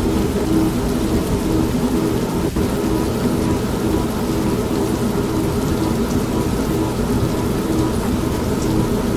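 An old manual washing machine running with a steady hum, mixed with steady rain and a continuous low rumble of thunder.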